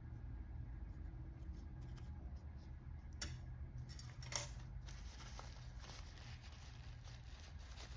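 Small clicks and scraping of a tool handling a piece of sodium metal kept under mineral oil, with two sharper clicks about three and four seconds in, over a low steady hum.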